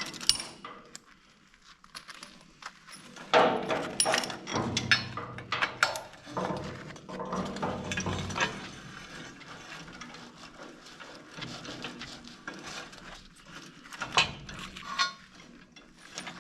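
Metal clinks and knocks of bolts and hand tools being handled and set down, with scraping and shuffling between them.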